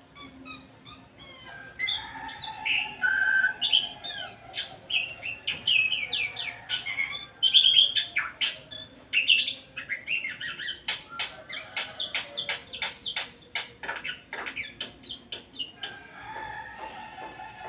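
Black-winged starling (jalak putih) singing in the style of an Asian pied starling (jalak suren): a varied string of whistles and chirps, then, from about ten seconds in, a fast run of sharp, clicky notes, several a second.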